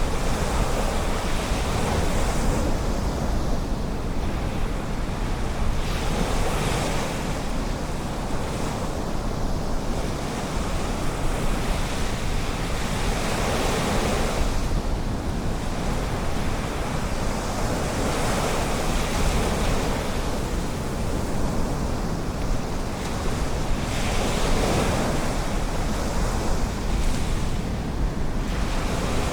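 Ocean surf: waves breaking and washing in, swelling about every five to seven seconds, over a steady low rumble of wind on the microphone.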